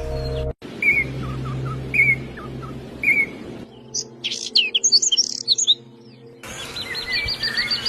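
Songbirds chirping in short clips that change abruptly: first a chirp repeated about once a second with lower notes between, then a quick flurry of high chirps, then a fast trill of repeated notes near the end.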